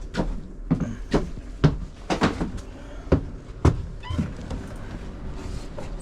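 A run of sharp knocks and clunks, about seven in the first four seconds, then quieter.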